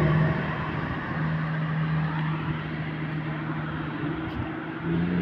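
A motor vehicle engine running with a steady hum, under a wash of road or traffic noise.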